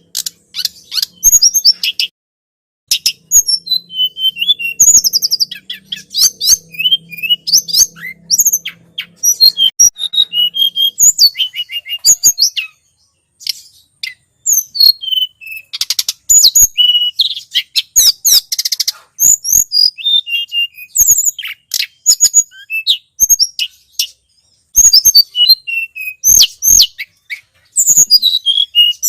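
Tledekan gunung bird-lure song: rapid high chirps and short sweeping whistled notes in dense bursts, with brief pauses about two seconds in and again about halfway through.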